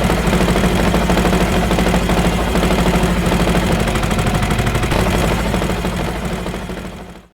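Small motor of a homemade mini tractor running steadily with a hum and a fast rattle, fading away near the end.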